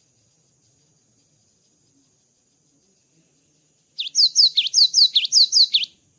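Cinereous tit (gelatik batu) singing: a quick run of about nine sharp, high notes, each sliding steeply down in pitch, starting about four seconds in and lasting some two seconds.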